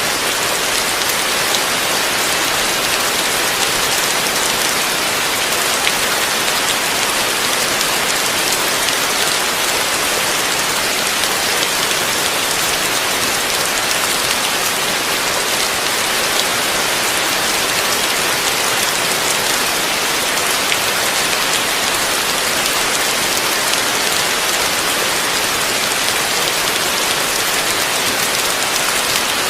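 Heavy rain falling steadily, an even dense hiss of drops on a surface with no breaks.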